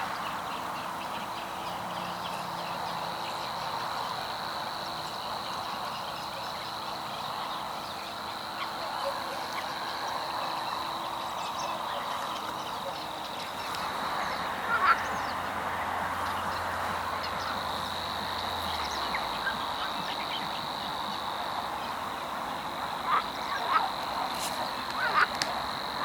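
Pond ambience with greylag geese honking now and then: a few short, louder calls in the middle and several near the end, over a steady background din and a faint steady high tone. A low drone joins in the middle and cuts off suddenly.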